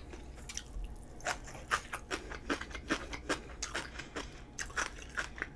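Person chewing a mouthful of fresh kimjang kimchi close to the microphone: short, irregular mouth and teeth clicks, a few each second, starting about a second in.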